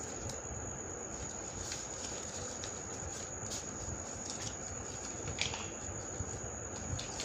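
Paper being folded and creased by hand, with short crinkles and taps, the loudest about five and a half seconds in, over a steady high-pitched whine and background hiss.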